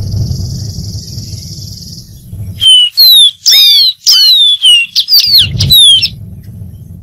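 Dark-throated seedeater singing one loud phrase of about three and a half seconds, starting about two and a half seconds in: a quick run of falling whistled notes. Before the song there is a low rumble and a faint steady hiss.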